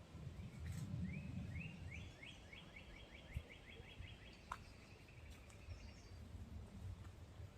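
A songbird singing a fast trill of short rising notes, about four or five a second, lasting about three seconds, over a low outdoor rumble.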